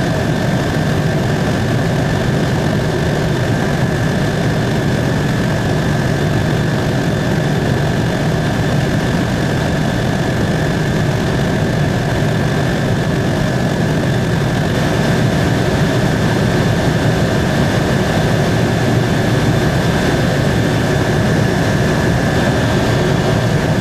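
Helicopter in steady cruise flight heard from inside the cabin: a constant rotor and engine drone with a steady high whine over it.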